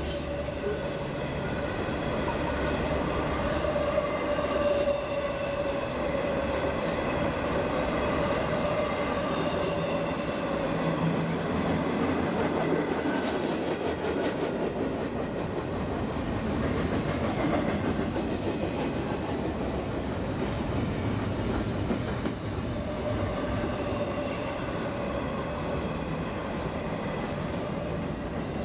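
Freight train cars rolling past on the rails, with a steady rumble of wheels on track. A high steady wheel squeal sounds over it at first, fades out around the middle, and comes back near the end.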